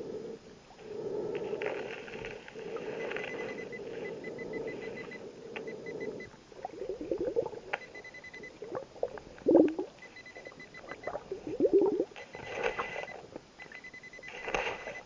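Underwater metal detector giving runs of rapid high beeps, on and off, as it signals a target. Underneath is a diver's scuba breathing: a rough rushing sound, then bubbling exhaust bursts about halfway through and again near the end.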